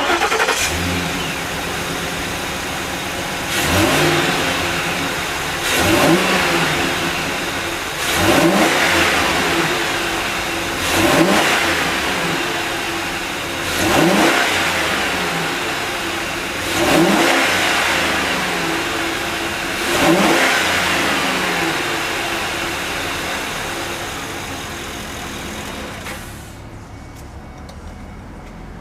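Ford E-150 van's V8 engine catching and running, then revved seven times, each rev a quick rise in pitch that falls back to idle, about every three seconds. Near the end it settles back and the sound drops in level.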